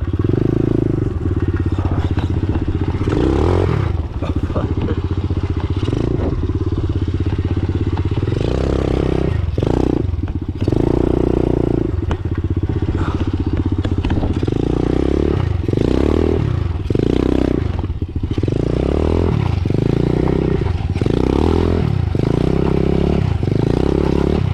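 Small 125 cc pit bike engine being ridden, revving up and easing off over and over as the throttle is opened and closed, with some clatter from the ride.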